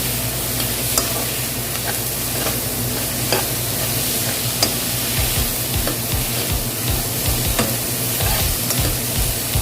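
Garlic and onion sizzling as they fry in oil in a pan, with scattered clicks of a spatula stirring them.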